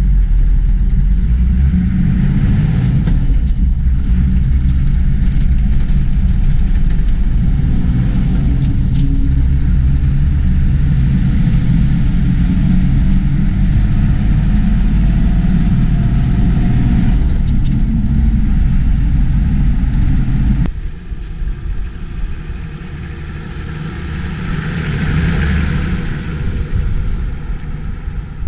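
Diesel engine of a 1980 Toyota Land Cruiser HJ45 Troopy running steadily. About two-thirds of the way through, the sound drops suddenly and carries on quieter, with a hiss swelling and fading near the end.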